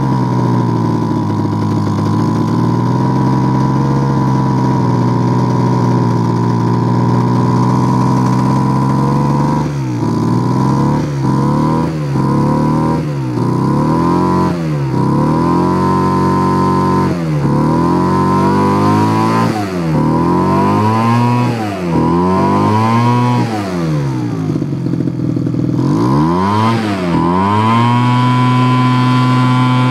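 Small blower engine running at high speed, then repeatedly bogging down and picking back up, its pitch dipping and rising about a dozen times, as Liquid Wrench penetrating oil is fed into the running engine. It settles back to a steady run near the end.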